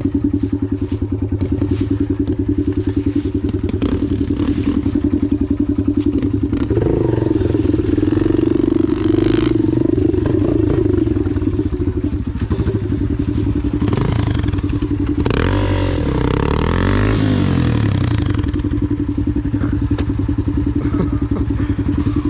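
Dirt bike engine running at idle, revved up twice, from about 7 to 11 seconds in and again from about 15 to 18 seconds in, with the pitch rising and falling. The revving is the rider trying to spin the rear wheel free after getting stuck.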